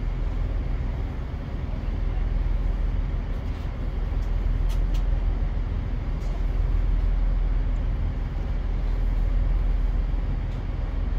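Steady low rumble inside a diesel passenger train as it slowly pulls away from a station, with engine and running noise swelling a little. A few faint clicks are heard about halfway through.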